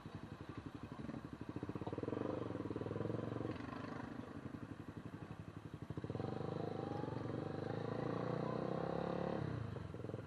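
Motorcycle engine running while riding, growing louder twice as it is opened up under load.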